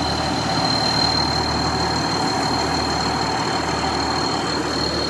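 Diesel engine of a large tracked heavy machine idling steadily, with a steady high-pitched whine over it.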